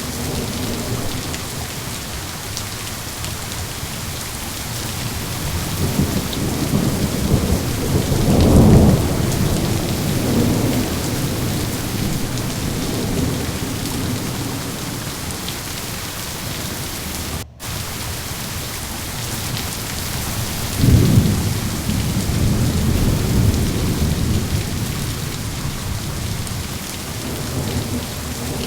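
Steady rain falling, with rolling thunder rumbling underneath; the thunder swells loudest about a third of the way in and again about three quarters through. Just past halfway the sound cuts out for an instant.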